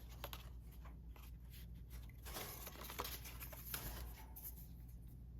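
Faint handling of paper ephemera: rustling and shuffling of paper pieces with light clicks and taps, busiest about halfway through.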